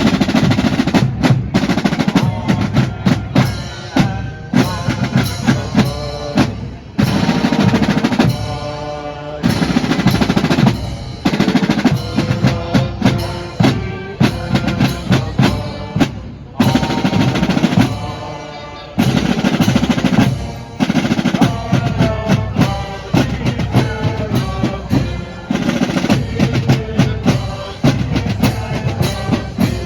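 Loud drumming: rapid snare and bass drum hits in rolls and irregular patterns, with some pitched tones mixed in between the hits.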